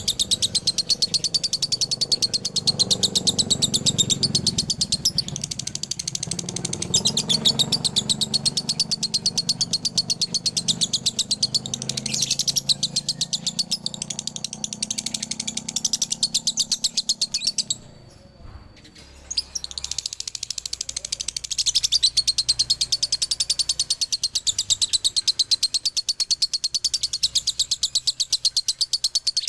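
Male lovebird giving its long 'dobelan' chirping: a continuous, very fast run of shrill chirps, broken by a short pause about two-thirds of the way through.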